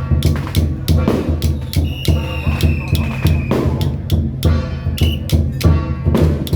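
Temple procession music: a steady pounding drumbeat with frequent cymbal crashes under a high, long-held melody line.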